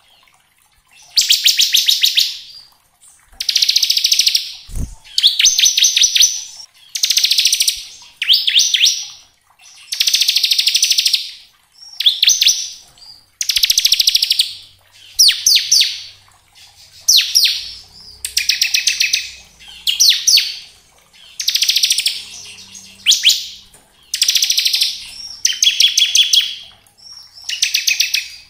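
Bar-winged prinia (ciblek) singing its rapid, buzzing trill song, the 'ngebren' style prized by bird keepers, in phrases about a second long, repeated over and over with short pauses.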